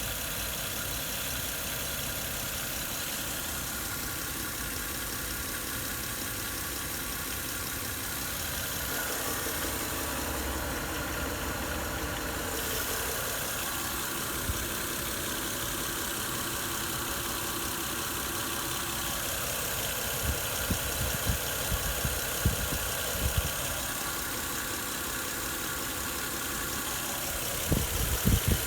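Toyota JZ-series straight-six engine idling with a knock, recorded to show the knock at idle. A few louder thumps come in the last seconds.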